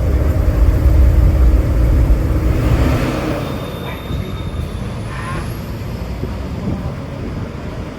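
Large bus's engine running with a deep low rumble, loud for about the first three seconds and then dropping away, with a brief hiss about three seconds in.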